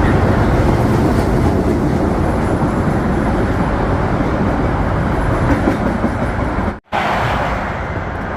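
A train passing close by, a loud steady rumble and wheel noise. It drops out for an instant near the end, then carries on a little quieter.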